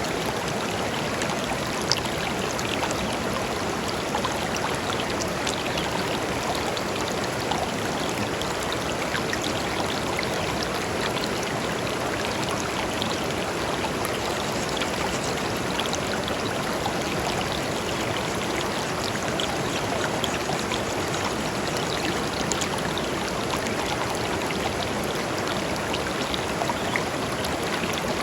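Shallow river flowing over stones, a steady rushing with small splashes and drips scattered through it.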